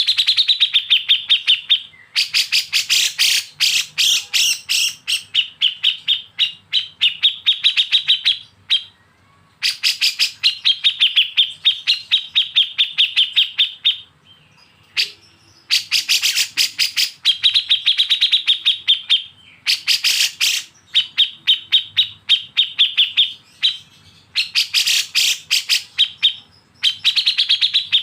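Bulbul song from a kapas tembak and cucak jenggot masteran: rapid runs of sharp chattering notes, about ten a second, the 'besetan' call. Each run lasts a few seconds, with short pauses between runs.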